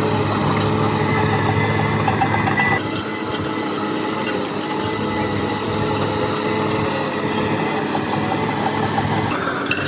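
Diesel engine of heavy earthmoving equipment running steadily, easing off slightly about three seconds in, with a rising whine near the end.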